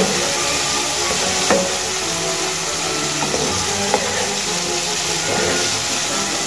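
Diced potatoes frying in hot oil in a non-stick pan, a steady sizzle, stirred with a wooden spatula that knocks against the pan twice.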